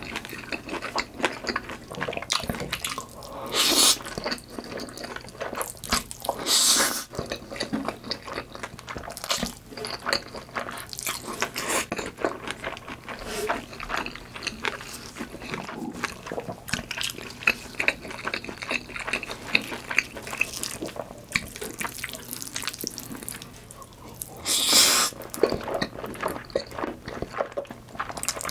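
Close-miked eating sounds: wet, sticky chewing and mouth smacks of a saucy noodle meal, a dense patter of small clicks, with a few louder short bursts about 4, 7 and 25 seconds in.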